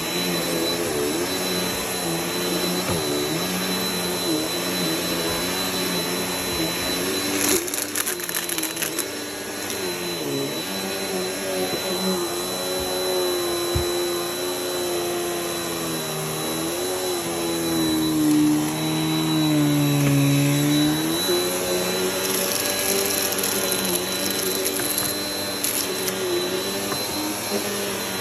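Vacuum cleaner running steadily, its motor note wavering up and down, with a fixed high whine above it. A short patch of crackling clicks comes about eight seconds in.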